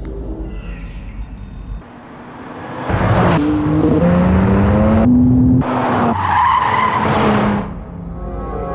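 Car engine revving hard under acceleration, its pitch climbing in two pulls with a sharp break between them, and tyres squealing about six to seven seconds in. A low electronic drone comes before it, and a fainter electronic hum follows near the end.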